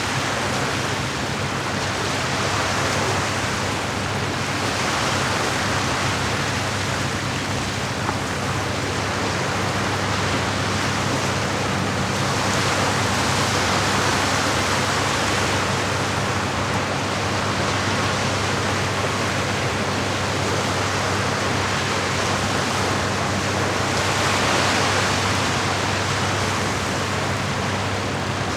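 Steady rush of moving water that swells and eases gently every several seconds, with a low steady hum underneath.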